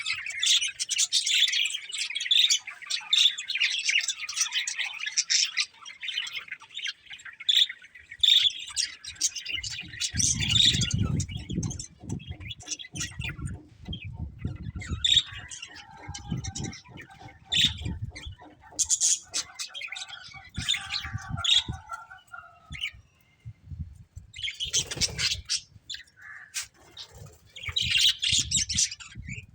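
Budgerigars chirping and chattering, densely at first and then in sparser bursts. A low rumbling noise runs underneath from about a third of the way in.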